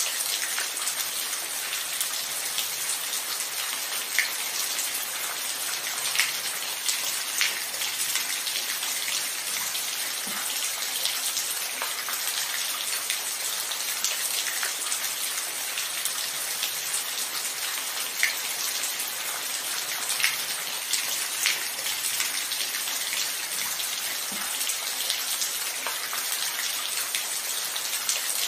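Steady rain falling, an even dense hiss. Louder single drops tick out of it every few seconds.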